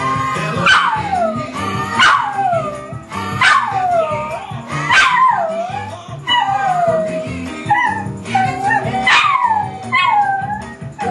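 Jack Russell terrier howling along to a jazz song: a run of howls, each sliding down in pitch, about one every second and a half, over the music.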